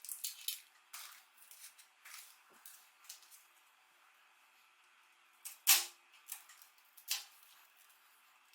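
Irregular sharp clicks and taps of hard plastic keyboard parts being handled, several in quick succession at first, then sparser, with one louder snap a little before six seconds in.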